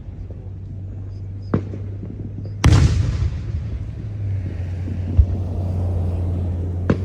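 Fireworks going off: a sharp bang a little over a second in, a loud bang near the middle that trails off in a long rumbling echo, and another bang near the end, over a steady low rumble.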